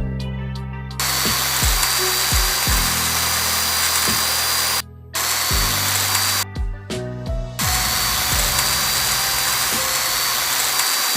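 A small electric motor running in three bursts with a steady high whine, stopping briefly twice, over background music.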